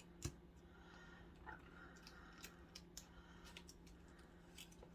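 Faint, irregular light clicks and paper rustles of cut-out paper pieces being handled and tucked into place on a paper envelope.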